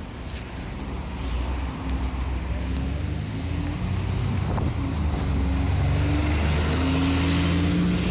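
Alexander Dennis Enviro400 double-deck bus's diesel engine heard on board, accelerating: the engine note climbs in pitch and grows steadily louder.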